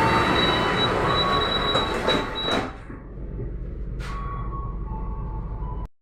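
Train running: loud rail noise with steady high-pitched tones. It drops away sharply about two and a half seconds in, leaving a quieter hum with one sharp click, then cuts off abruptly just before the end.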